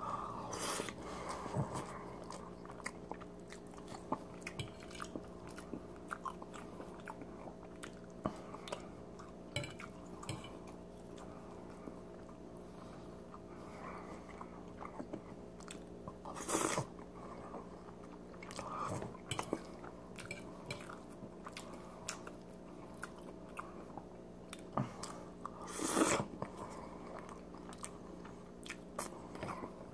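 Close-up mouth sounds of eating spaghetti in cream sauce: soft chewing and slurping noodles, with a few louder moments about halfway through and near the end. A faint steady hum runs underneath.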